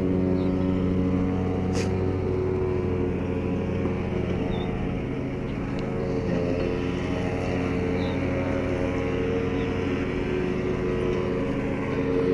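A motor running steadily, a low hum whose pitch shifts slightly about six seconds in.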